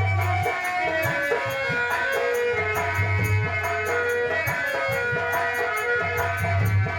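Indian folk music of the Nautanki kind: a melody moving in held notes over low drum strokes, with a fast, even, shaken-rattle beat.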